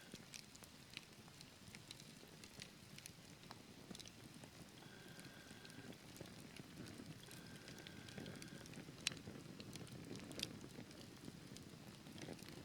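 Wood fire burning in a fireplace, crackling softly: a low rumble of flame with many small crackles and two sharper pops about nine and ten seconds in. Twice a faint thin high tone is held for about a second.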